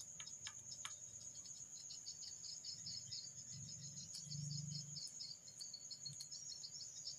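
Crickets chirping: a steady high trill with pulsing chirps beneath it, and a few faint clicks in the first second.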